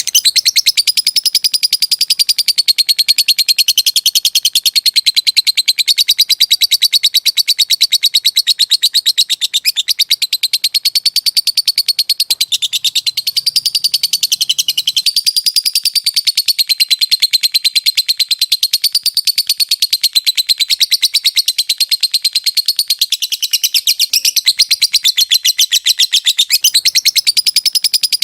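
Lovebird giving a long, unbroken 'ngekek' trill: a rapid, high-pitched chatter of very fast pulses, wavering slightly in pitch and never pausing. This is the long ngekek with 'ngetik' (typing-like) ticks that is prized in fighter lovebirds.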